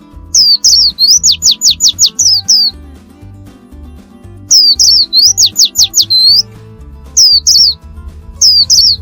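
A songbird singing in four bursts, each a quick run of high notes that sweep sharply downward, over background music with a repeating bass beat.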